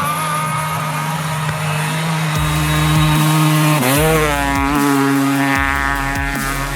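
Motorcycle engine running hard at steady high revs. About four seconds in the pitch dips briefly and then climbs again, as with a gear change or a blip of the throttle.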